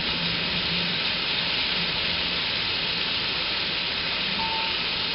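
Mutton pieces and freshly added sliced onions sizzling in hot oil in a pot, a steady frying hiss.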